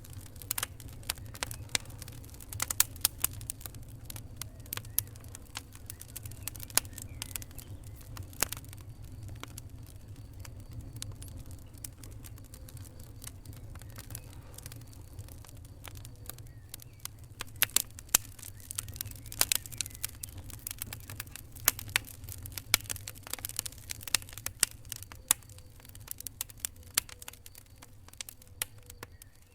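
Fire crackling: irregular sharp pops and snaps over a steady low rumble, with busier spells of pops near the start and through much of the second half.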